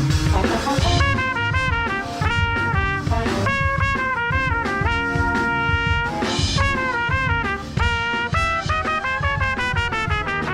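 Band music at a rehearsal: a wind-instrument melody comes in about a second in and plays short and held notes over a drum kit.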